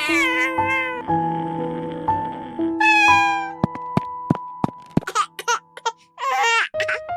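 A cat meowing over steady background music, with one clear meow about three seconds in and a string of sharp clicks in the middle.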